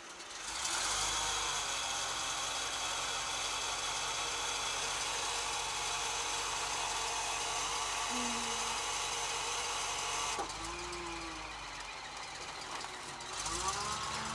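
1981 GMC C7000 dump truck's engine running steadily with a whine over it. The sound rises about half a second in, holds for about ten seconds, then drops back to a quieter run.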